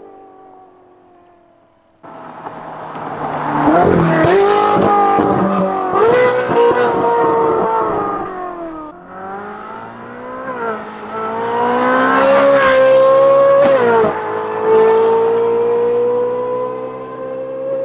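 Ferrari 458's naturally aspirated flat-plane V8 through a titanium valved exhaust with free-flow front pipes, heard from outside the car. It comes in abruptly about two seconds in and revs hard, its pitch climbing and dropping at each gear change. A second hard pull follows, and it settles to a steady tone near the end.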